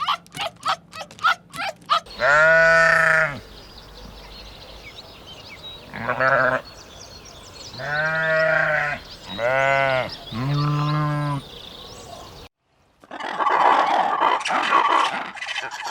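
A farm animal bleating: five long, wavering bleats spread over about ten seconds. They follow a couple of seconds of rapid short chirps. After an abrupt cut near the end comes a stretch of busy noise.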